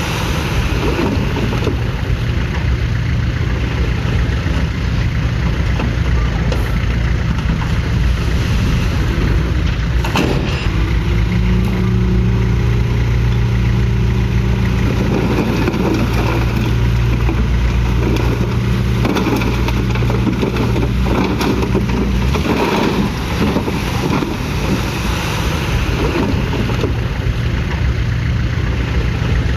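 Komatsu D31PX bulldozer's diesel engine running continuously, its note shifting to a new steady hum about ten seconds in, with scattered metallic clanks.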